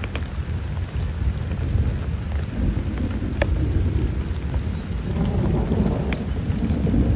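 Heavy rain falling, with scattered sharp drop hits, over a low rolling rumble of thunder that swells about two and a half seconds in and grows louder again from about five seconds.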